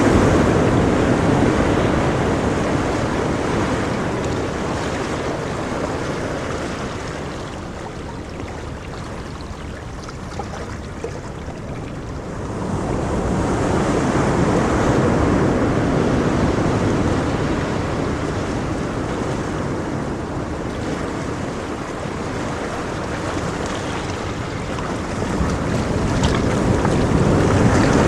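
Ocean surf: waves breaking and washing up the shore in a steady rushing noise that swells loudest at the start, again about twelve seconds in, and once more near the end, easing off in between.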